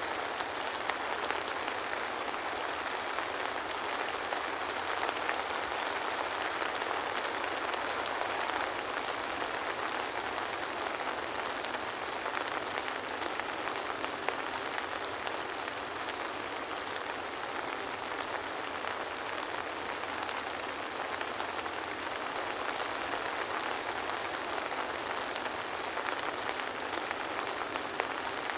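Steady soft rain pattering on a surface, a dense even hiss of many small drops with no thunder.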